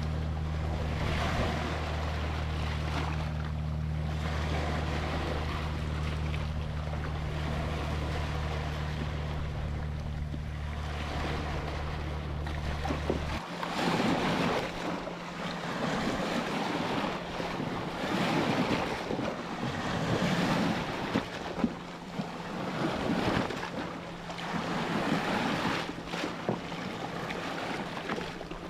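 Ocean surf: waves breaking and washing in, rising and falling in swells. A low, steady droning chord sounds under the surf and cuts off about halfway through, after which the swells come louder.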